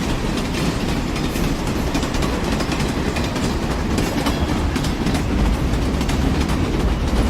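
Train running on rails: a steady heavy rumble with the clickety-clack of wheels over rail joints, growing a little louder toward the end as it approaches.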